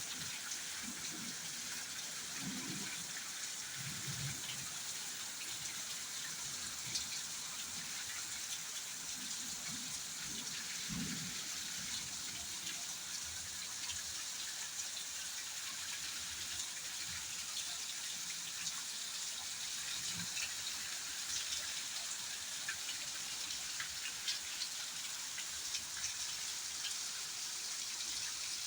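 Steady rain falling, an even hiss with many individual drops ticking through it, and a few soft low rumbles in the first half.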